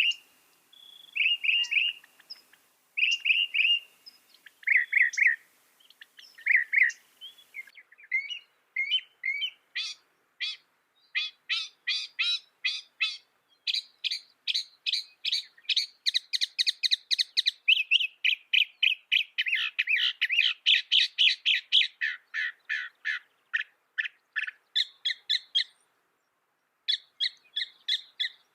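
Mockingbird singing: slurred two-note phrases at first, then long fast runs of repeated chips and trills, each note type repeated several times before it switches to another. There is a pause of about a second near the end.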